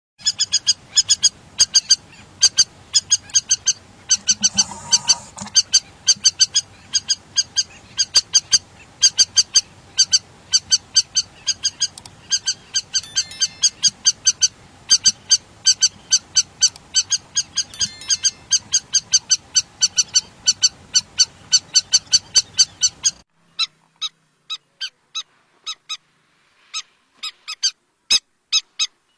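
Lapwing calling: a long run of sharp, high, repeated notes, about three a second, in series with brief gaps. About two-thirds of the way through the background hiss drops out suddenly and the calls go on, more widely spaced.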